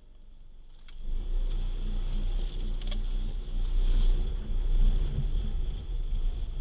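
Car on the move: a steady low rumble of engine and road noise that comes in sharply after a click about a second in.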